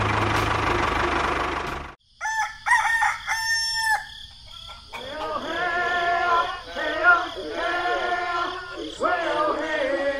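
A steady engine-like sound effect cuts off suddenly about two seconds in. A rooster crows, followed by several seconds of short, repeated chicken calls.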